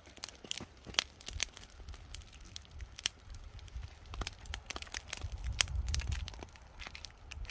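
Wood fire crackling, with many irregular sharp pops and snaps, over a low rumble.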